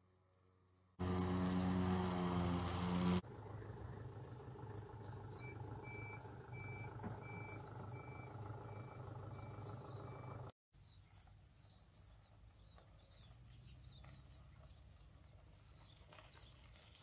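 Small birds chirping over and over in open countryside ambience. About a second in, a loud low hum with a steady pitch lasts about two seconds, and a thin high steady whine runs through the middle section.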